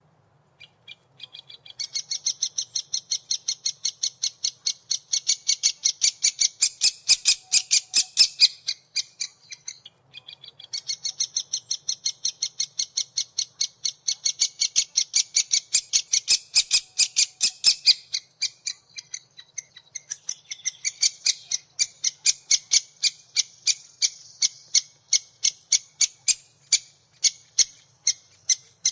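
Woodpecker nestlings calling in a fast, steady chatter of high chirps, several a second. The chatter comes in three long bouts with short pauses between them: the insistent begging of chicks in the nest.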